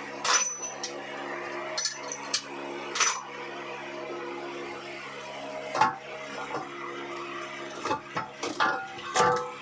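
Metal hand tools clinking and clattering against engine parts at irregular moments, several quick clinks together near the end, over a steady low hum.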